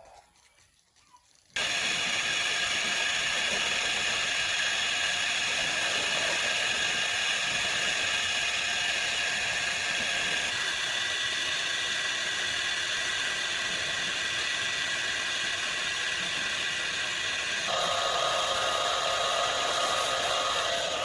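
A steady mechanical whirr from a running machine, starting abruptly about a second and a half in; its tone shifts slightly twice.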